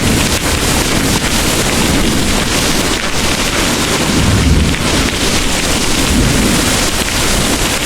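Heavy rain pouring steadily, with a low rumble of distant thunder under it that swells briefly about four seconds in.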